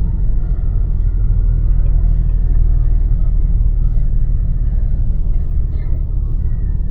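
Car engine running at low, steady revs while driving slowly, heard as a steady deep rumble with no revving.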